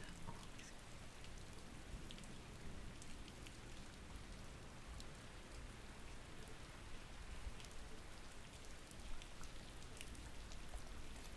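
Steady rain falling, with scattered light ticks of individual drops.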